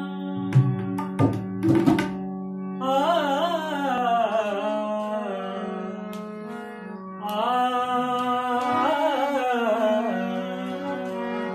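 A male voice singing a wordless, gliding opening phrase twice over a steady held drone, with a few drum strokes in the first two seconds: a folk song's introductory vocal practice.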